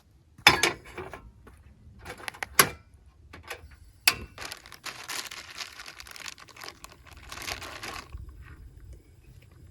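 Things being handled and set down in a cramped space: three sharp knocks with lighter clicks between them, then several seconds of rustling that stops about eight seconds in.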